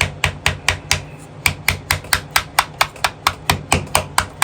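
Rapid hammer blows, about five a second with a brief pause about a second in, driving a screwdriver through a stuck motorcycle oil filter to lever it loose.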